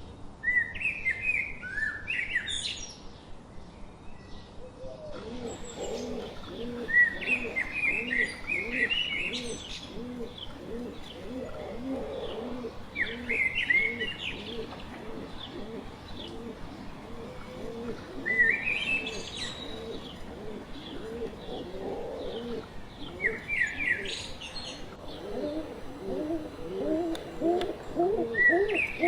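A songbird singing a short phrase of chirping notes about every five seconds, over a lower, fast-repeated cooing that starts about five seconds in and grows louder near the end.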